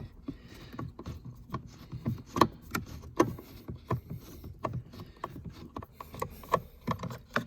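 Irregular clicks and light taps, a few a second, of a screwdriver working a Phillips screw out of plastic console trim.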